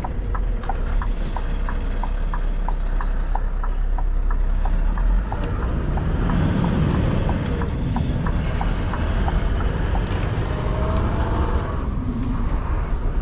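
Scania R620 V8 truck engine running, heard from inside the cab, with a short tick repeating about three times a second, typical of the indicator, that stops about eight seconds in.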